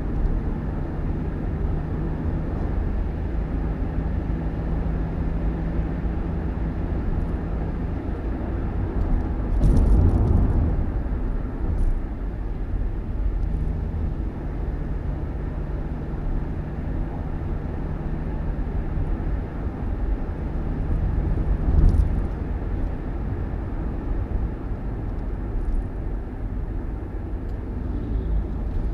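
A vehicle on the move: a steady low rumble of engine and road noise with a held low hum, swelling louder briefly twice, about a third of the way in and again about three quarters through.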